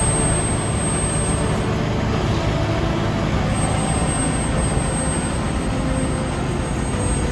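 Heavy diesel engines of road-paving machinery and trucks running steadily in a dense, loud, low rumble.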